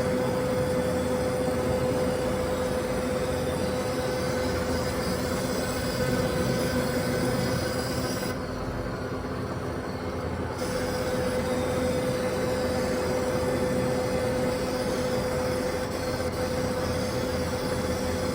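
Bullard vertical lathe turning an elevator sheave while the tool cuts the cable groove: a steady machining noise with a steady whining tone. The whine and the hiss drop out for about two seconds midway, then resume.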